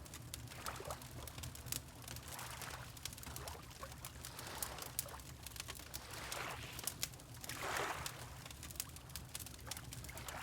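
Water lapping in gentle swells every second or two, over the fine crackle of a wood fire, with a low steady rumble underneath.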